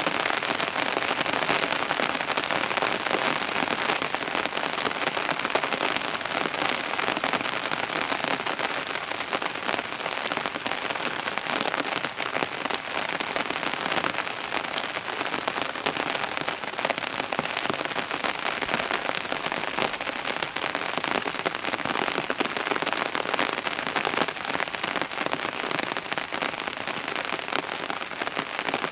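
Steady rain falling, with many individual drop impacts heard as fine ticks over an even hiss.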